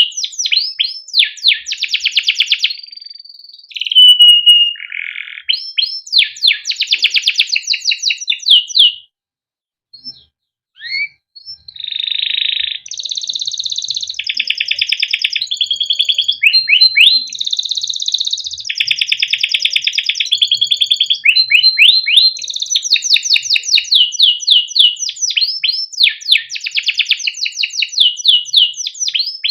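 Male domestic canary in full song: long runs of rapid repeated chirps and rolling trills, with a short pause about nine seconds in before the song picks up again.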